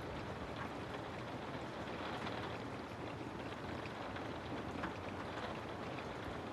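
Rain falling on a house: a steady, dense hiss with many small drops ticking through it.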